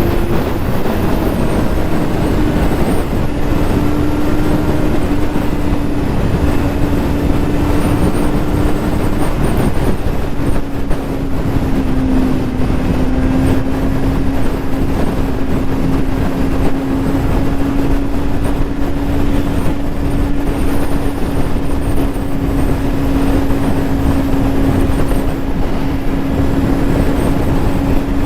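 Yamaha YZF-R6 600 cc inline-four running at a steady high rpm, its pitch sagging slightly around the middle and then levelling off, over heavy wind rumble on the rider's camera microphone.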